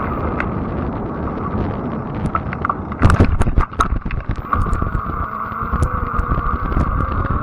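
Fat-tire electric bike riding: wind on the microphone and tyre rumble under a steady high motor whine. The whine drops away near the start and comes back about four and a half seconds in. Around three to four seconds in there is a burst of clattering knocks from the bike jolting over bumps.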